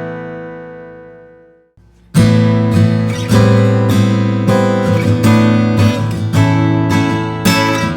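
Steel-string acoustic guitar: a chord rings out and fades almost to nothing, then after a short pause the playing resumes with chords plucked about one or two a second.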